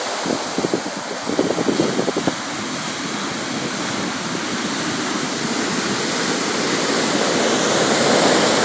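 Sea waves washing in a steady rush, with a few short sharp crackles in the first two seconds and the surge slowly building toward the end.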